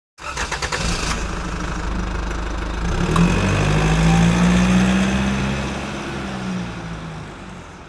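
Car engine starting with a quick run of pulses, then revving: the engine note rises a little, then sinks and slowly fades out.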